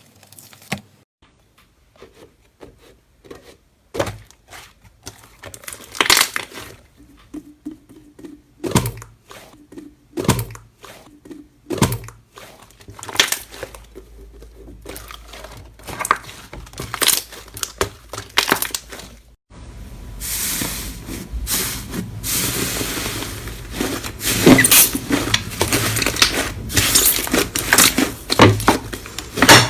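Slime being handled by hand, giving scattered clicks and pops. After a sudden cut about two-thirds of the way in, it turns into a denser, steady run of crackling and popping.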